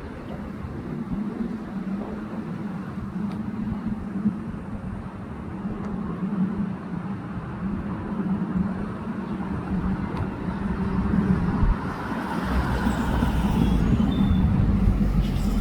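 Jet airliner engine noise from an Airbus A350-1000's Rolls-Royce Trent XWB engines passing overhead: a steady rumble that slowly grows louder, with a deeper rumble joining near the end.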